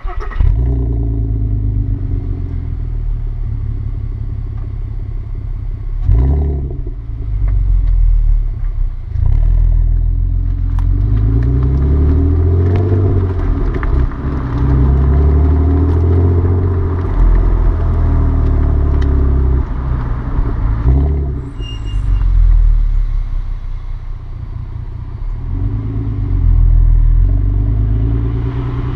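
Audi TT 3.2's VR6 engine through a non-resonated Milltek exhaust, running and revving. The pitch climbs and drops back several times.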